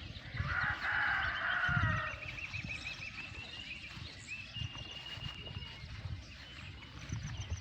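Wild birds calling: a loud harsh call for about two seconds at the start, then a fast trill of repeated chirps and a thin, steady high whistle. Low thuds run underneath.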